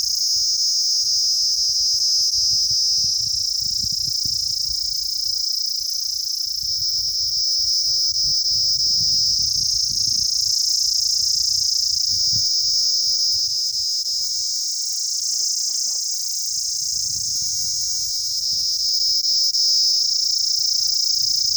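Steady, high-pitched insect chorus that runs without a break, with an uneven low rumble underneath.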